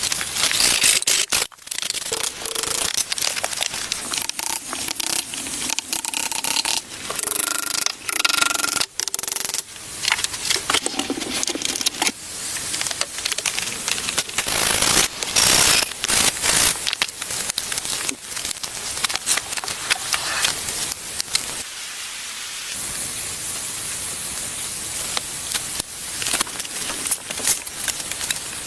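Wood and building materials being scraped, rubbed and handled in a series of short, irregular strokes, with a steadier hiss for a few seconds near the end.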